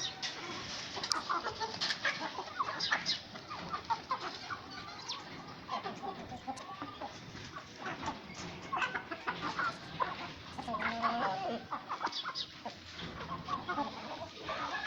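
A flock of hens and roosters clucking, many short calls overlapping.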